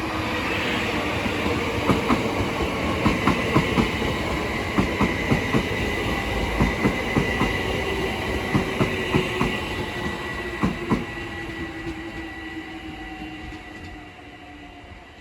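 London Overground Class 378 electric multiple unit arriving and slowing, its wheels clicking over rail joints under a whine that slowly falls in pitch. The sound fades over the last few seconds.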